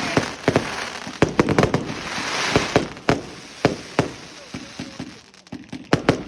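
Fireworks going off in quick succession: sharp bangs and crackling, with a hissing spell about two seconds in, thinning to a few scattered bangs in the second half.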